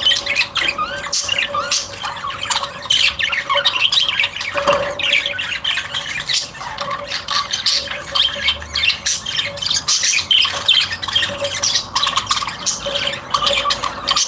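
A flock of small kept birds squawking and chirping, many calls overlapping without a break, over a faint steady hum.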